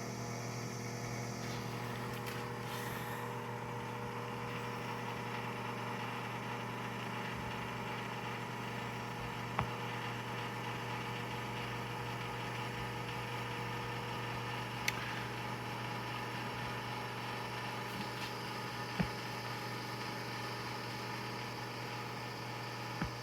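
Convection toaster oven running: a steady electrical hum from its heating elements and side convection fan, with a few faint clicks.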